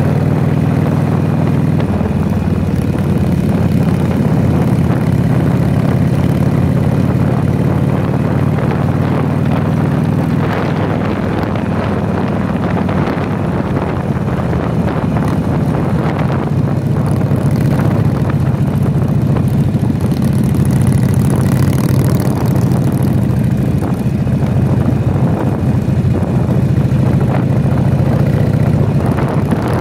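Harley-Davidson Sportster V-twin motorcycle engine running steadily at cruising speed, heard from the rider's seat, with wind buffeting the microphone.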